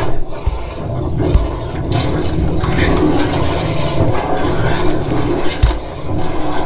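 Water rushing through a soil stack pipe from a high-pressure drain jetter, with a few sharp low thumps, as the blockage breaks through into the drain.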